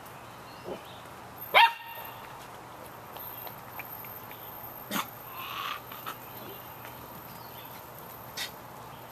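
A Samoyed puppy gives one sharp, high yap about a second and a half in, then a fainter, shorter yelp about five seconds in, with a few small knocks between.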